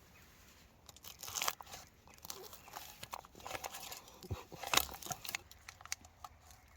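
Crinkling and tearing of a cooked steak pie's wrapping as it is opened: irregular crackles and rustles, with a louder crackle about a second and a half in and another near the end.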